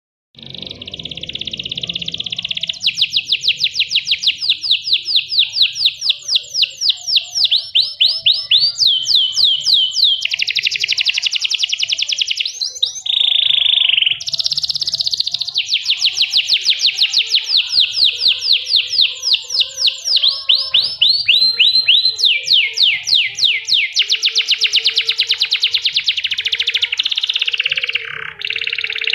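Domestic canary singing a long, unbroken song of rapid trills. Each phrase is a fast run of repeated notes, and the bird switches to a new trill pattern every second or few.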